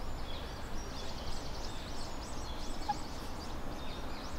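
Small birds chirping: a busy run of short, high chirps that rise and fall, several a second, over a steady low rumble.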